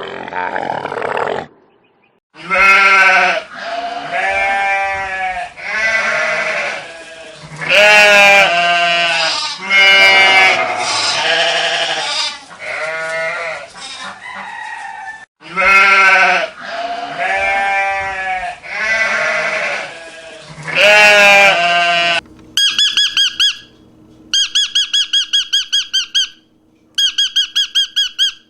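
Bleating livestock: a series of loud, wavering bleats, one after another. Near the end the bleats give way to short runs of rapid, high-pitched chirping from another animal.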